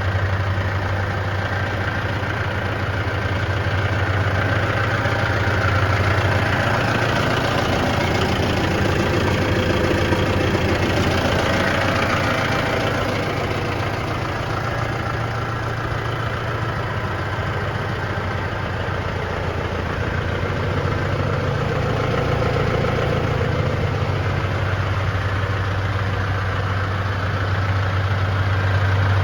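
Case 110 Pro tractor's diesel engine idling steadily with an even, low hum.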